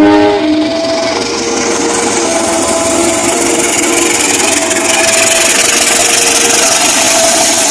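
A train passing close by, its wheels on the rails making a loud, steady rushing noise that comes in suddenly at the start, while a pattern of held warning-like tones at two or three alternating pitches keeps repeating about once a second.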